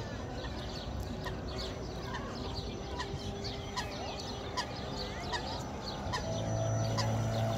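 Birds chirping and calling in quick, repeated short notes, with a low steady hum coming in near the end.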